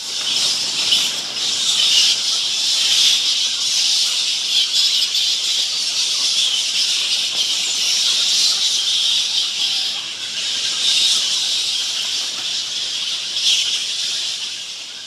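A steady high-pitched hissing noise that starts suddenly and wavers a little in level, fading out at the end.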